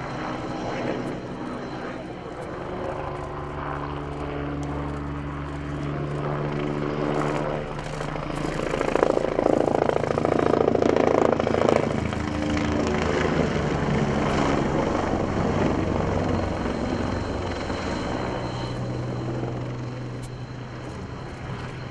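Helicopter flying past: its rotor and engine noise grows to a peak about halfway through, then fades, the tone sitting lower as it moves away.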